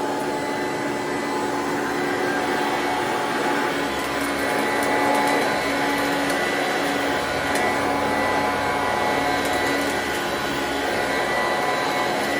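Singer System 90 vacuum cleaner running steadily, its motor holding a constant whine, with a low rumble that comes and goes from about four seconds in as it is worked over the floor.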